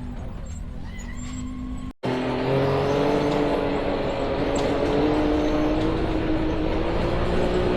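Off-road vehicle engine running: a quieter steady hum that breaks off abruptly about two seconds in, then a louder engine note whose pitch slowly rises.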